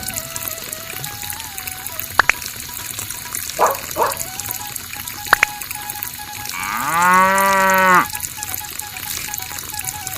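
A cow moos once, a single call about a second and a half long that rises at the start and then holds steady, about seven seconds in. A faint melody and a few sharp clicks sit underneath.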